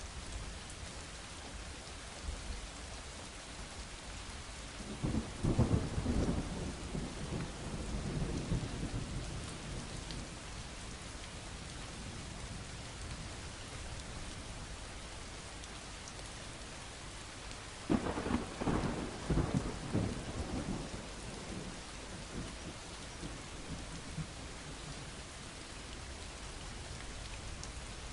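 Steady rain with two rolls of thunder: one rumbles for a few seconds starting about five seconds in, and a second, sharper one breaks suddenly past the middle and rumbles on for a few seconds.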